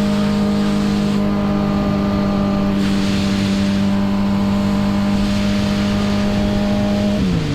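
Motorcycle engine running at steady high revs, holding one even pitch, then the revs dropping away just before the end.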